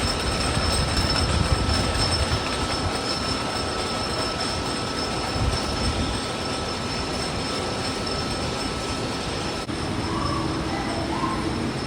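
An amusement-park ride train, most likely a roller coaster, running steadily along its track with a rumble of wheels on rail. The sound changes abruptly about ten seconds in.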